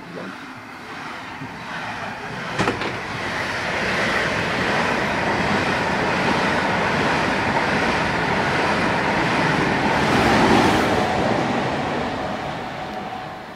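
ICE high-speed train running through at speed: a steady rush of wheel and air noise that builds from a few seconds in, peaks near the end and then fades. A short sharp knock sounds about two and a half seconds in.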